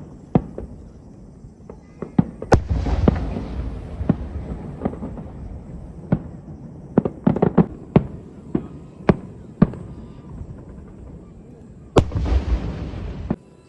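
Aerial fireworks bursting: a series of sharp bangs, some in quick clusters. The two loudest booms come about two and a half seconds in and near the end, each trailing off over a second or so, and the second cuts off suddenly.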